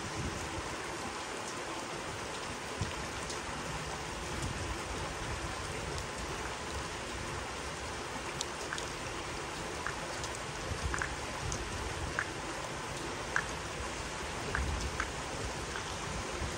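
Steady rain hissing, with scattered individual raindrops tapping close by.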